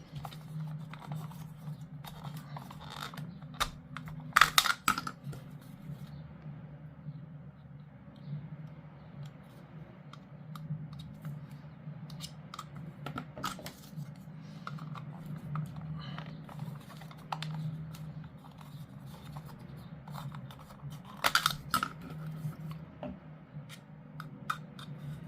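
Hard plastic model kit pieces being handled and fitted together on a desk: scattered small clicks and taps, with a louder clatter of clicks about four seconds in and again near the end.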